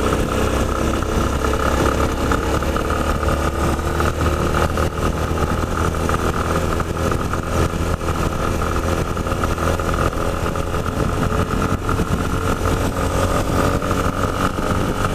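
Yamaha Ténéré 250's single-cylinder engine running steadily under way, its pitch rising slightly in the first few seconds and then holding even.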